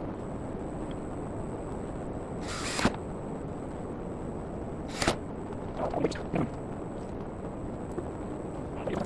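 Handling noises over steady background noise: a short rasp about two and a half seconds in, a sharp knock about halfway, and a few lighter knocks shortly after.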